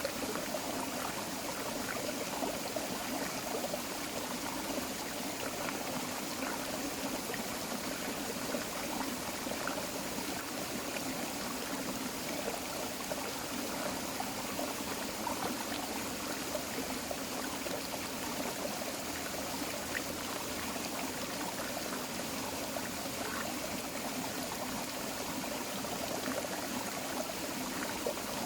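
Small tropical forest creek flowing steadily over rocks, an even babbling and trickling of water.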